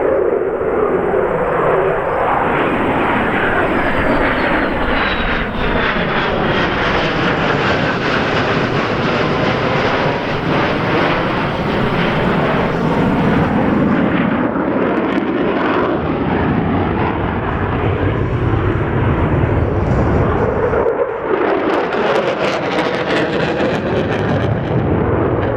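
Jet noise from an EA-18G Growler's twin turbofan engines, loud and continuous, with a sweeping hollow tone as the jet moves past.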